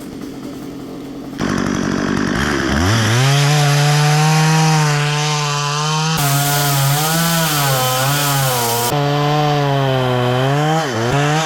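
Two-stroke chainsaw revved up to full throttle about two seconds in and held there as it cuts wood, its pitch dipping briefly now and then under load. There is a bright hiss for a few seconds in the middle, and the engine falls back off throttle at the end.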